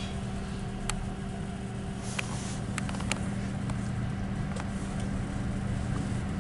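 Passenger train running between stations, heard from inside the carriage: a steady low hum from the running train, with a few scattered sharp clicks and rattles.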